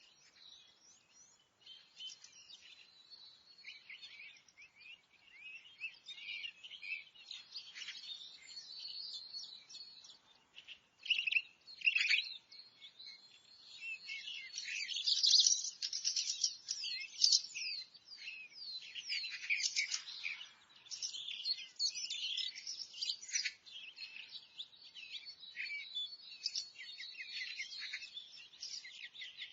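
Forest bird chorus: many birds singing and chirping at once, with dense overlapping high calls and short trills throughout, busiest in the middle.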